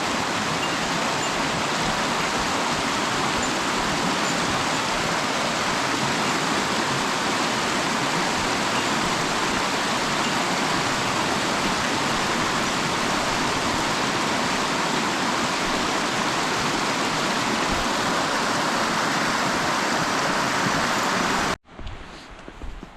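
Mountain stream water rushing steadily, cutting off suddenly near the end.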